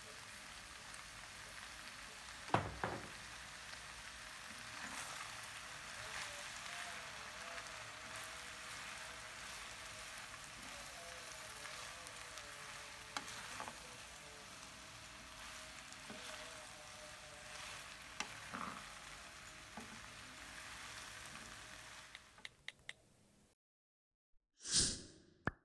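Glass noodles, tofu, tempeh and vegetables sizzling in a non-stick frying pan as they are stir-fried, with a few sharp knocks of the spatula against the pan. The sizzling cuts off suddenly near the end, followed by one short sound effect.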